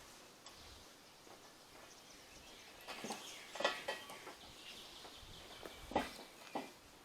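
Faint knocks and clanks of steel crane parts being handled and fitted, about four in all, one of them ringing on for a couple of seconds.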